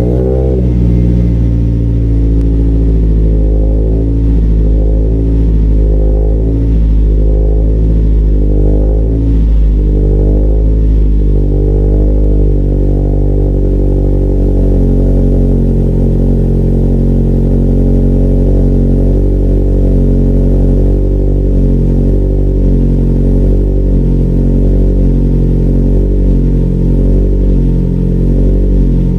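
2004 Hyundai Tiburon's turbocharged 2.0L inline-four idling just after start-up through an Ark DT-S V2 exhaust with the catalytic converter deleted. The idle wavers for the first ten seconds or so, then settles steadier.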